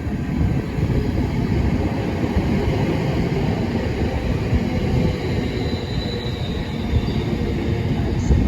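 A train running along the track, a steady low rumble of wheels on rails, with a faint high-pitched wheel squeal a little past the middle.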